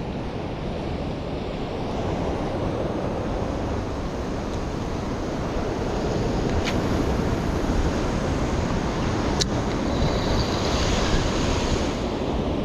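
Ocean surf washing steadily, with wind buffeting the microphone and two faint clicks a few seconds apart.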